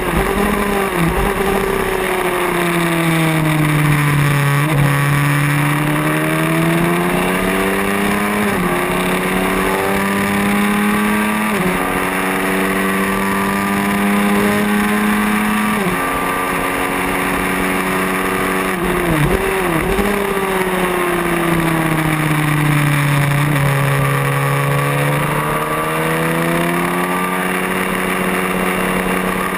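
Race motorcycle engine at racing speed, with wind rush over the microphone. Its pitch climbs and drops sharply at each upshift, every three to four seconds, and twice slides down as the bike slows for corners before climbing again.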